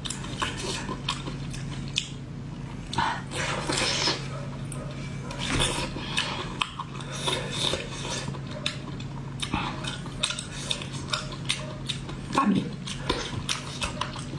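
Eating sounds from someone eating octopus: chewing, with many short clicks of utensils against dishes, over a steady low hum. A brief voiced sound comes near the end.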